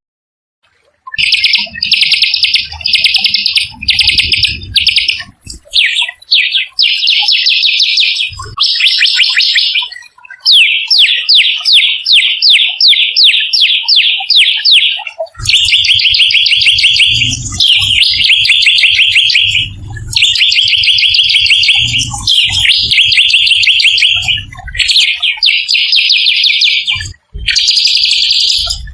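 A small songbird singing loud, rapid rolling trills: phrase after phrase of fast repeated notes, each lasting about a second, with short breaks between.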